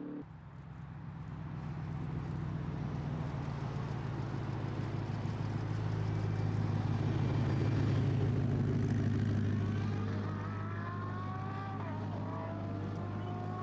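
A car driving at high speed, with a steady low drone that swells and then eases. From about ten seconds in, a whine rises in pitch over it.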